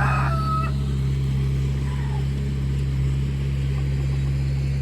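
An engine running steadily at a constant speed, a low, even hum. A short high call overlaps the first half second.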